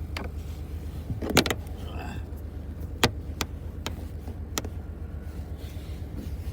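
A handful of sharp clicks and knocks, the loudest a quick double knock about a second and a half in, from a device or its mount being adjusted by hand inside a car, over the steady low rumble of the car.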